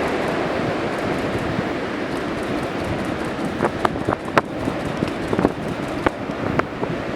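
Steady rush of breaking ocean surf, with a run of sharp clicks about halfway through.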